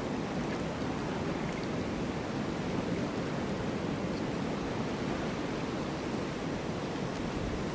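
Snowstorm wind blowing steadily as an even, deep rushing noise, with a flickering low rumble underneath.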